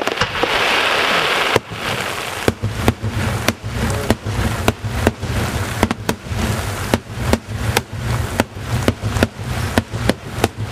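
Daytime fireworks display: a hiss for the first second and a half, then a rapid string of sharp bangs from aerial shells bursting overhead, about two to three a second, over a steady low rumble.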